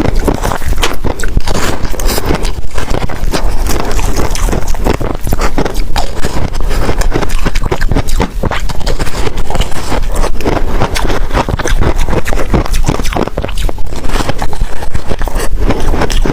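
Close-miked chewing of soft freezer frost ice: a dense, continuous run of crisp crunches.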